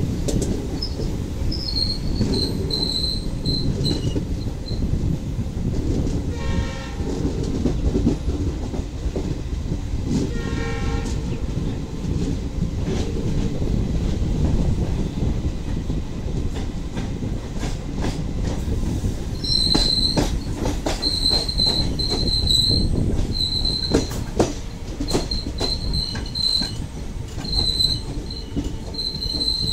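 Express train coaches running on the track, heard from an open coach door: a steady low rumble with wheel clicks. The locomotive horn sounds briefly twice, about a quarter and a third of the way in. From about two-thirds through, the wheels squeal repeatedly in short high-pitched bursts.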